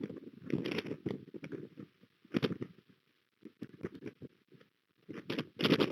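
Strong wind gusts buffeting the nest-cam microphone: irregular rumbling bursts with crackle, the loudest gusts about two and a half seconds in and near the end.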